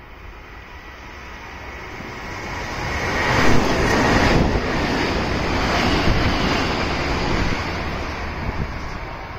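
Kintetsu Minami-Osaka Line electric train going past: a rushing rumble of wheels on rail that swells over a couple of seconds, is loudest near the middle, then slowly fades.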